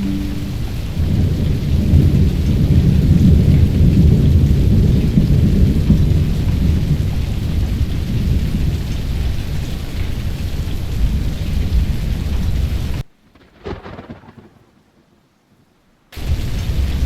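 Thunderstorm: a long low rumble of thunder over steady rain, falling almost silent for a few seconds near the end before the rain noise returns.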